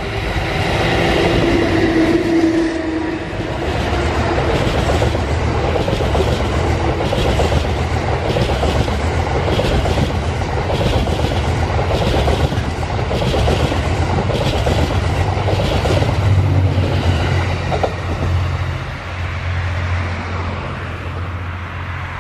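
EF81 electric locomotive passing close by, a few steady tones from it at first, followed by the Cassiopeia's E26 sleeper coaches rolling past. Their wheels clack over rail joints in a repeating rhythm above a steady rumble, easing off over the last few seconds as the train leaves.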